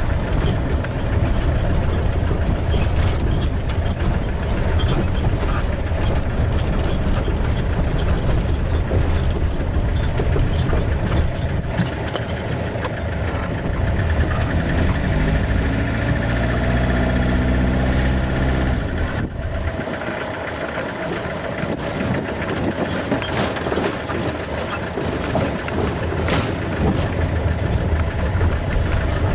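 Vehicle engine running with a steady low rumble. Its pitch rises for a few seconds as it speeds up, then the sound changes abruptly about two thirds of the way in.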